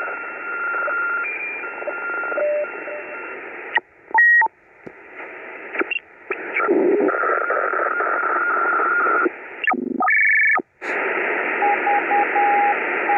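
Static hiss from the Belka-DX shortwave receiver's loudspeaker as it is retuned. Steady carrier whistles come and go, and the sound cuts out suddenly a few times. Near the end a Morse code signal beeps in short and long tones.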